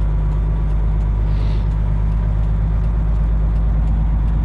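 Freightliner Classic semi truck's diesel engine running steadily, heard from inside the cab as an even low drone.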